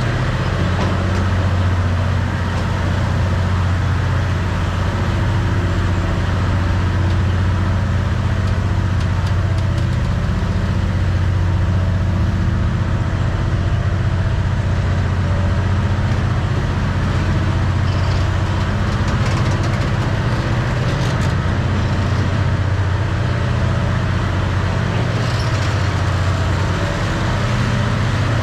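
Train running on the Death Railway line, a steady low engine drone over a continuous rumble.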